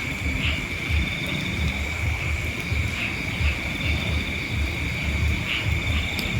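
Steady insect trilling, high-pitched and unbroken, with wind rumbling on the microphone underneath.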